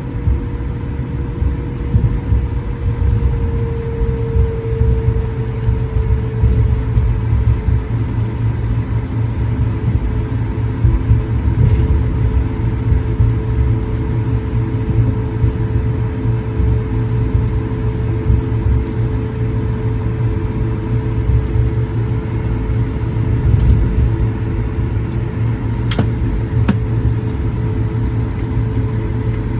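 Cabin noise of an Airbus A220-100 taxiing: a steady low rumble with an even engine hum over it. A brief click sounds near the end.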